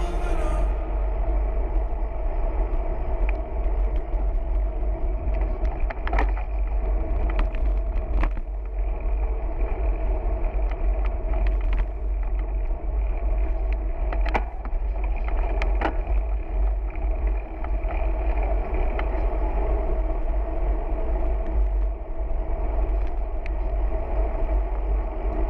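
Wind rumbling on the microphone and steady road noise while riding a bicycle, with a few light clicks or knocks.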